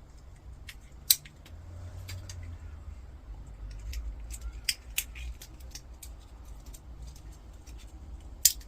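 Scattered sharp clicks and snaps of hand tools working at a small switch's casing to break it open. The two loudest snaps come about a second in and near the end.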